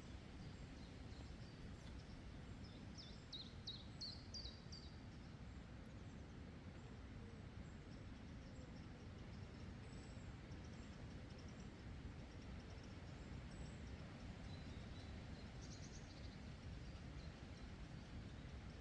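Faint meadow ambience: a low steady rumble, with a small bird giving a quick run of high chirps about three to five seconds in and a few fainter chirps later.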